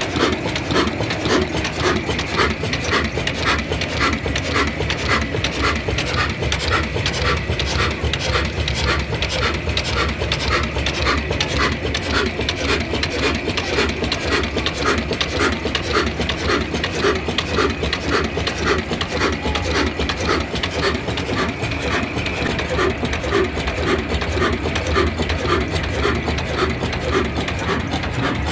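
Old diesel engine running steadily, with an even, rapid chuffing beat of about five beats a second.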